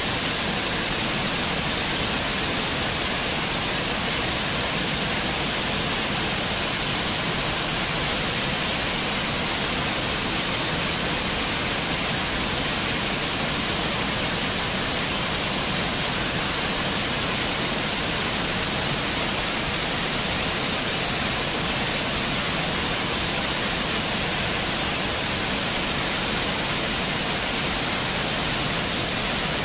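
Running water, a steady unbroken rush with a constant high hiss and no change in level.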